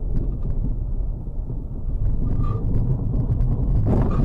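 Car driving, recorded by a dashcam inside the vehicle: a steady low rumble of engine and road noise. Near the end there is a brief, louder burst of noise.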